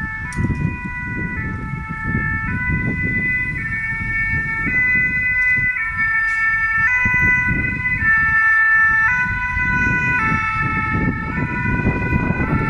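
Two-tone emergency-vehicle siren of the French type, sounding loudly and switching between its high and low notes about once a second, over a steady low rumble of engine and traffic noise.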